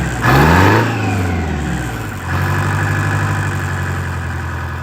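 John Deere 420 garden tractor engine revving, its pitch swinging up and down in the first second. About two seconds in it settles into a steady run.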